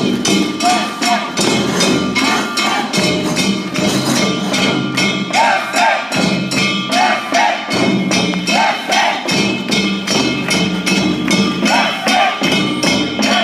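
Japanese festival hayashi for a kawafune boat performance: drums and a ringing metal bell struck in a fast, even beat, about four strikes a second, with short rising-and-falling calls over it.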